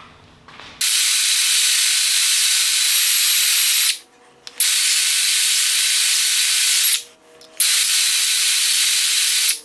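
Pressurised spray or air hissing out of a nozzle in three long, steady blasts, with a faint high whistle in the hiss.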